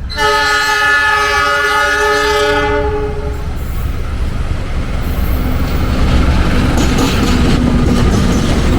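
Diesel locomotive horn sounding one long chord for about three seconds, starting abruptly. Then comes the rumble and clatter of the train running past, growing louder near the end.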